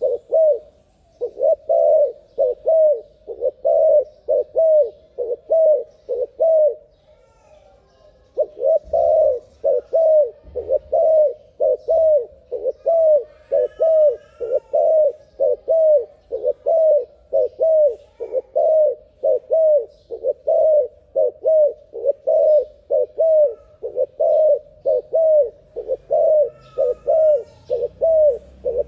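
Terkukur (spotted dove) cooing in a fast, even run of short coos, about two a second, with a brief pause about a quarter of the way in. A few faint higher chirps from another bird come in around the middle and near the end.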